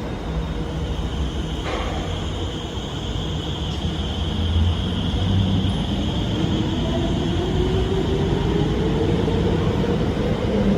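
Electric metro train pulling away from the station, its traction motor whine rising steadily in pitch from about halfway through, over a steady high hum and train rumble.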